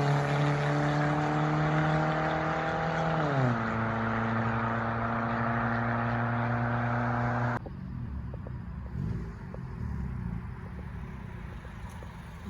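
Honda Civic four-cylinder engine with the muffler and resonator deleted, running at a steady high rpm with a loud, raspy exhaust note. About three seconds in, the pitch slides down to a lower steady note. Past the middle the sound cuts off abruptly to a quieter low rumble.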